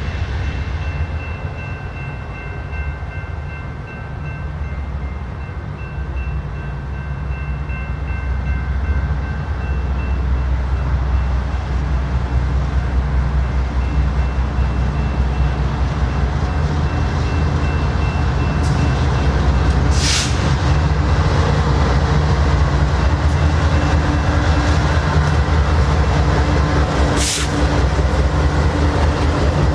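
A BNSF freight train of autorack cars passing behind diesel locomotives, a heavy steady rumble of engines and wheels that grows louder as it goes. Faint high steady squealing tones fade out in the first third, and two sharp bangs come in the second half.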